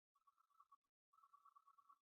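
Near silence: the recording's faint background hum, steady but cutting out for brief moments.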